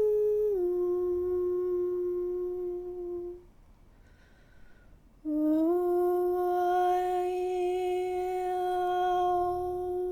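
A woman's voice toning: a long held sung note that drops slightly in pitch, a pause for breath, then a second long note that slides up a little and is held, its vowel colour shifting.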